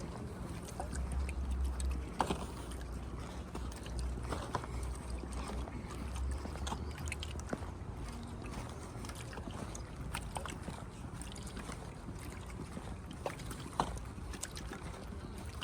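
Wind rumbling on the microphone outdoors, stronger for several seconds near the start, with scattered light clicks and taps over a general outdoor hum.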